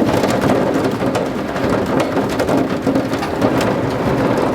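Heavy rain pouring down hard, a loud, dense patter of countless drop hits.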